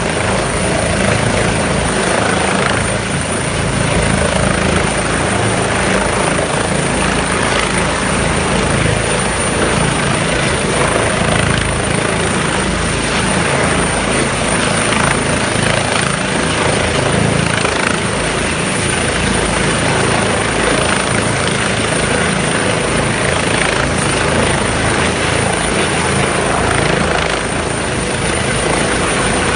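Helicopter running, a loud steady rotor and engine noise with a low throb, unbroken throughout.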